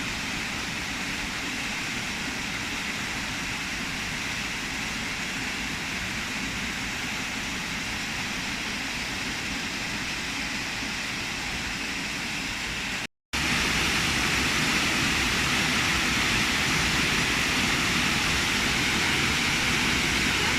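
Steady rushing of a waterfall. It cuts out for a moment about thirteen seconds in and comes back a little louder.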